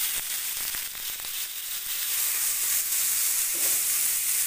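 Chicken pieces sizzling in hot oil in a frying pan, with soy sauce just added and bubbling around them. It is a steady hiss that gets a little louder about two seconds in.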